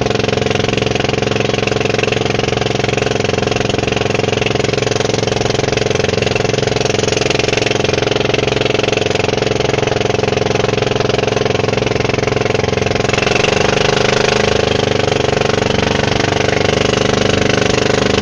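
Boat engine running steadily at speed, a loud, even drone; its tone shifts slightly and grows a little louder about thirteen seconds in.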